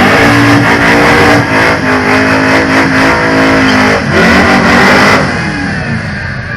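A muscle car's engine revving hard under acceleration: its pitch climbs and holds high, drops briefly about four seconds in, climbs again, then falls away near the end.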